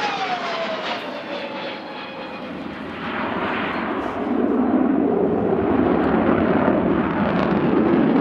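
Saab JAS 39 Gripen C's single Volvo RM12 turbofan jet engine during a display pass: a whine falls in pitch as the jet goes by, then the engine's rumble grows louder about four seconds in and holds.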